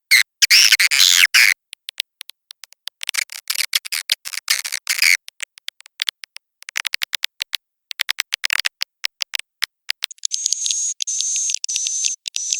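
Edible-nest swiftlet lure recording: dense, rapid clicking twitters and chirps, thinning to sparse clicks, then about ten seconds in a continuous high buzzing trill takes over. It is a call track played from a swiftlet house to draw the birds to nest.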